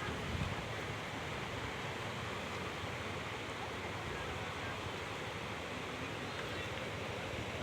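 Steady, even background hiss with no distinct event; no helicopter rotor is heard.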